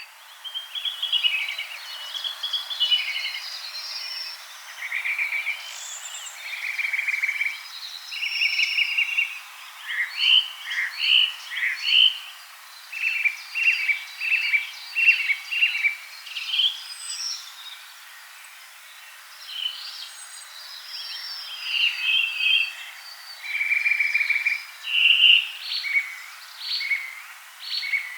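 Forest songbirds singing, several overlapping: a run of short chirps and quick trilled phrases, one after another, over a steady background hiss.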